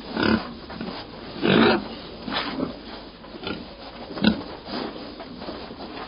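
Pigs grunting in a string of short calls about a second apart, the loudest about one and a half seconds in.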